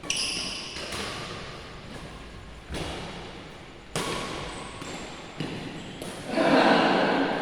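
Badminton rally: rackets striking the shuttlecock every second or so, each hit sharp and echoing in a large hall. A louder spell of noise follows near the end.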